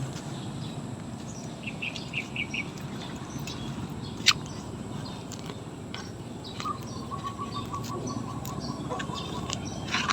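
A bird chirping, a quick run of short high notes, over a low steady background hum, with a single sharp click near the middle and a thin steady trill near the end.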